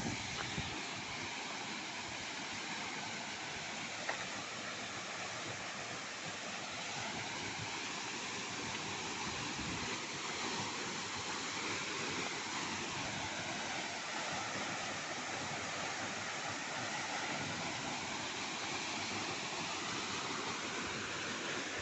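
Waterfall rushing, a steady, even roar of falling water that keeps up throughout, with a single faint click about four seconds in.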